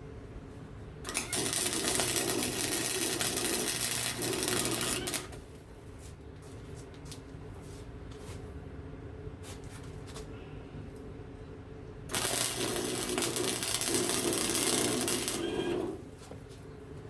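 Small Harbor Freight wire-feed welder running two weld beads on a snapped steel mower rod: two runs of loud, crackling arc sizzle about four seconds each, with a steady low hum in between.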